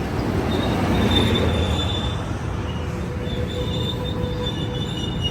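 Amtrak Capitol Corridor passenger train rolling slowly into the station, a steady rumble of cars on the rails with thin, high squeals from the wheels as it slows to stop.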